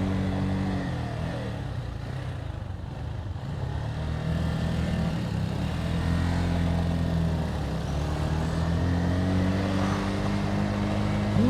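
Motorcycle engine running while riding, easing off about a second in and then pulling up again from about four seconds in.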